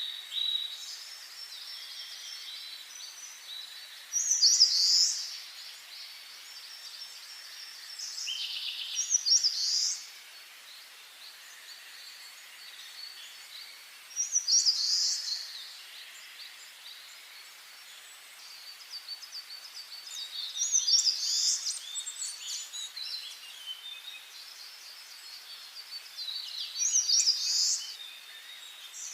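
Songbirds singing in a forest: one bird repeats a short, loud song phrase of quick falling notes about every five to six seconds, over softer, continuous chirping from other birds.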